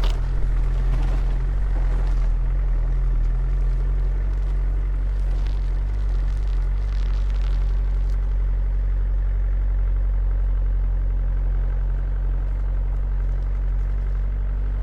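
A vehicle engine running steadily: an even, low drone.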